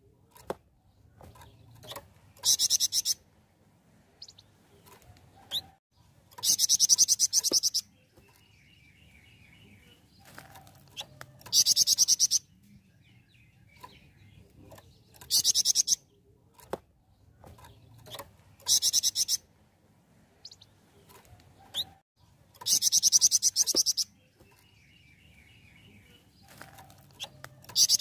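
Flamboyan songbird singing: very high, rapid trills in short bursts about every three to four seconds, with softer chirps between them.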